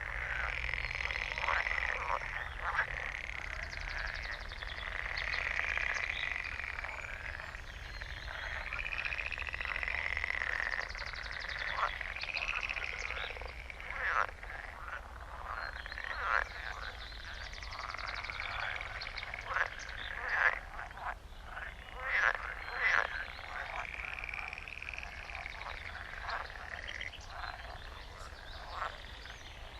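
Chorus of many frogs croaking, their rattling calls overlapping without a break, with a few louder nearby croaks standing out in the second half.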